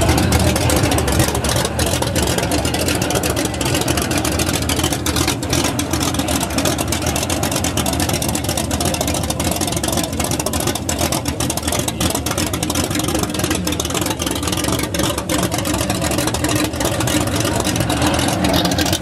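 Turbocharged air-cooled VW flat-four drag engine idling loudly through open headers, a steady stream of rapid, irregular exhaust pulses.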